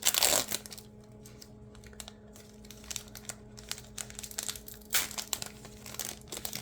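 A foil baseball-card pack wrapper being torn open and crinkled: a loud crackling rip at the start, small rustles and clicks after it, and another crinkle about five seconds in.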